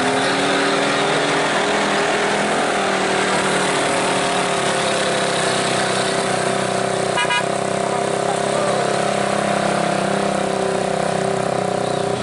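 A heavy truck's diesel engine running steadily, with a short horn toot about seven seconds in.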